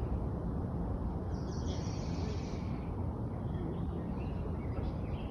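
Outdoor ambience: a steady low rumble, with a bird singing for about a second starting a little over a second in.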